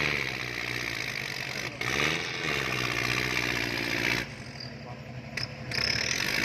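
Kubota L4708 tractor's diesel engine running under varying load, its pitch dipping and rising. It falls away about four seconds in and picks up again near the end.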